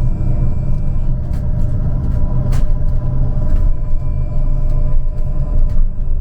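A trolleybus running, heard from on board: a steady low rumble with a steady hum over it. A sharp knock comes about two and a half seconds in.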